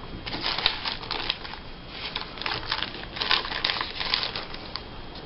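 Hands rummaging through a pile of paper picture cut-outs: crisp paper rustling and crinkling in irregular bursts, with small ticks and taps.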